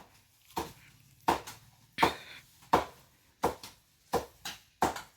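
A hand hoe chopping into garden soil again and again while tilling, a dull strike about every three-quarters of a second, some strokes coming in quick pairs.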